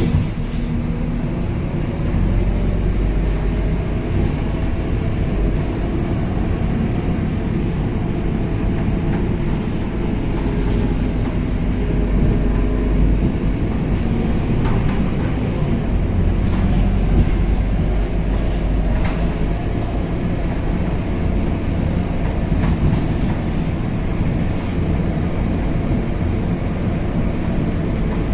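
Scania K270UB city bus heard from inside the cabin while riding: steady engine and road noise with a deep rumble, a faint drifting engine tone and a few light knocks and rattles.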